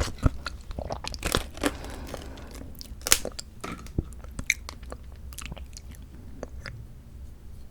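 Close-miked eating of mandarin orange segments from a fruit cup: wet chewing and biting with sharp clicks and smacks. The clicks are dense in the first couple of seconds and thin out after that.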